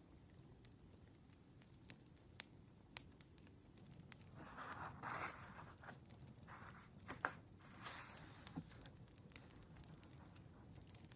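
Faint wood fire crackling with scattered small pops, and two brief rustles of paper near the middle, the second ending in a sharp tap.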